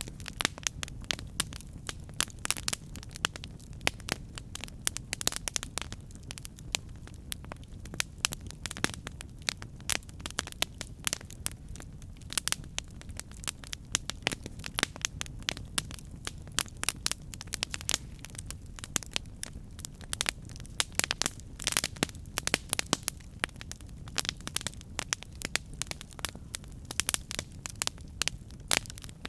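Campfire burning: wood crackling and popping in quick, irregular snaps over a steady low rumble of flame.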